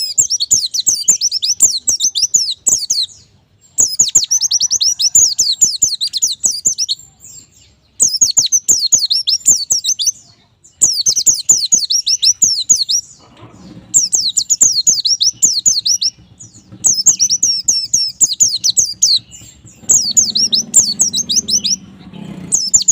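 White-eye (pleci) singing: rapid, high-pitched twittering phrases of two to three seconds each, repeated about seven times with short pauses between.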